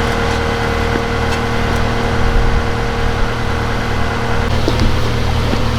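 An engine running steadily, with a steady hum in it that drops out about four and a half seconds in.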